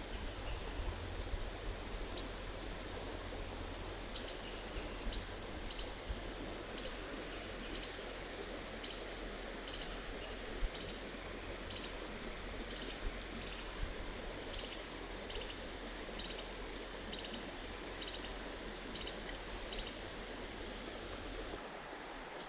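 Creek water running in a steady rush. A faint run of short high ticks or chirps repeats about twice a second from about four seconds in until near the end.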